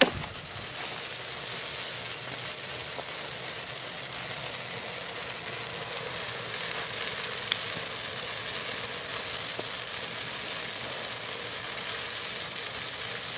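Firework spraying sparks with a steady high hiss, starting with a sharp crack, with a few faint ticks.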